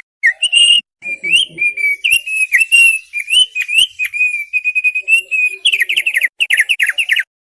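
Thick-billed heleia (opior paruh tebal) singing a long, varied run of quick whistled and chattering notes. Near the end it breaks into rapid strings of falling notes, then stops abruptly.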